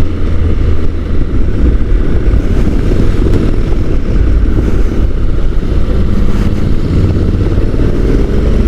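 Motorcycle on the move: steady wind rush on the microphone over the Honda NC750 DCT's parallel-twin engine running, its note rising slightly near the end.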